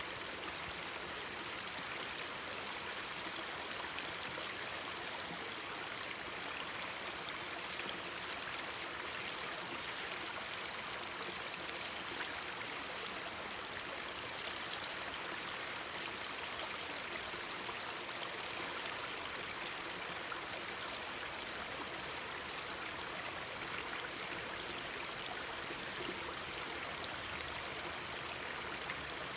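Mountain stream babbling steadily over rocks, with faint scattered crackles from a campfire.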